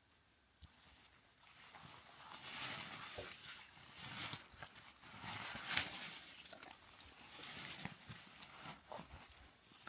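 Footsteps crunching and rustling through dry forest leaf litter and twigs, uneven, with louder crunches every second or so and small snaps.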